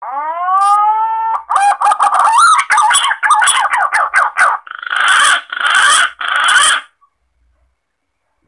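Green pigeon (punai) calls played as a hunting lure: a long rising whistled note, then a run of quick warbling notes, then three harsh, hoarse notes, stopping about seven seconds in.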